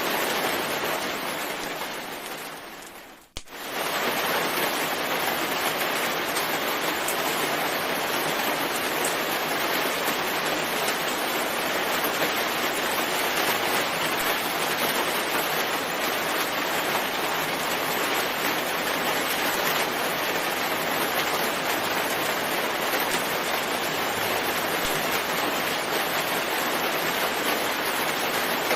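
Steady rain: a dense, even hiss. About three seconds in it fades away to almost nothing and comes straight back.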